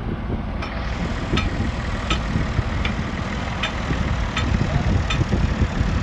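Tractor engine running steadily at a low rumble, with a short click repeating about every three-quarters of a second.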